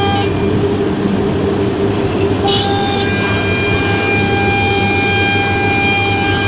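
CNC router's spindle running with a steady high-pitched whine over the machine's low running noise. The lowest tone of the whine drops out just after the start and comes back about two and a half seconds in.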